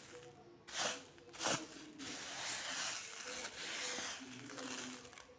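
Rustling and scraping: two short sharp scrapes about a second in, then a steady rustle for a few seconds.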